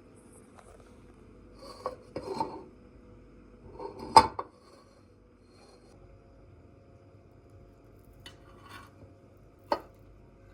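Dishes and kitchen utensils being handled: a few short clinks and knocks in small clusters, the loudest about four seconds in, and one sharp knock near the end.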